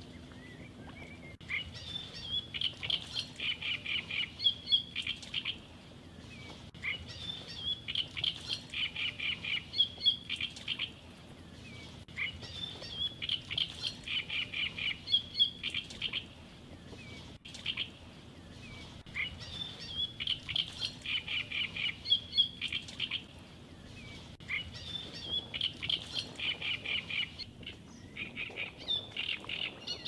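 A songbird singing the same fast, chirping phrase over and over, about six times, each phrase lasting three to four seconds with a short pause between.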